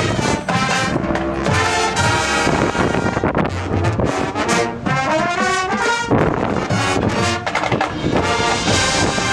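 School marching band playing, the brass (trombones and trumpets) sustaining full chords with drum hits underneath.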